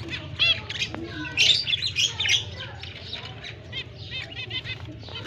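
Lovebirds chirping and squawking in rapid, overlapping high calls, loudest about one and a half to two and a half seconds in, over a steady low hum.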